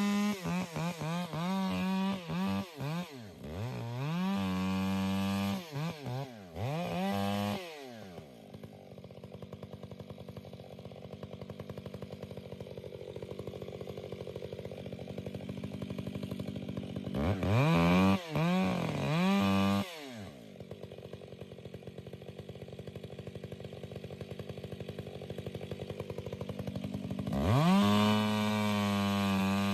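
Two-stroke chainsaw revving up and down in repeated bursts, dropping to a steady idle for several seconds twice, then revving high again near the end.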